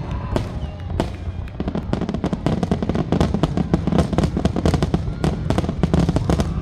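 Fireworks display in a rapid barrage: many bangs and crackles tumbling over one another, several to the second, over a continuous low booming.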